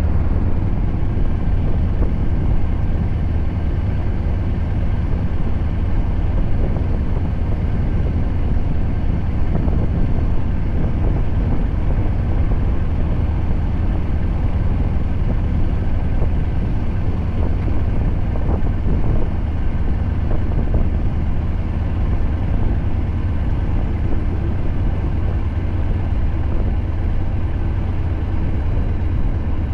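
Scania R580's V8 diesel with a straight-piped 8-inch exhaust running steadily as the truck drives, a deep even drone with no revving.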